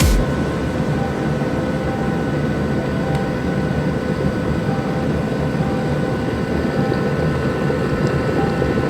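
Steady machine whir from an appliance running, an even rushing noise with a few faint steady tones.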